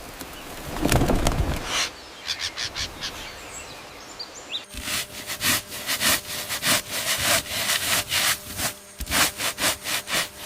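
Rough, rhythmic strokes of a hand tool working through wood and growth, about three a second, starting about five seconds in after a dull thump near the start.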